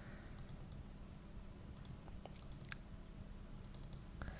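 Faint computer keyboard clicking in a few short runs of keystrokes, over a low steady hum.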